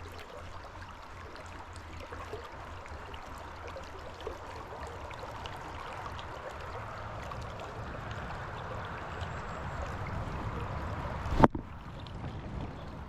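Stream water running steadily over rocks. There is one sharp knock about eleven seconds in.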